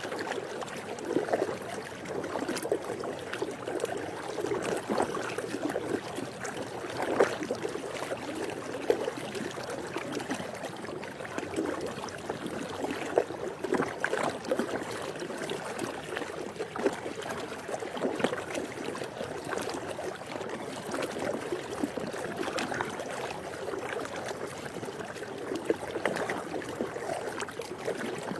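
Swimming pool water lapping and splashing steadily, with many small splashes and trickles scattered through the steady wash.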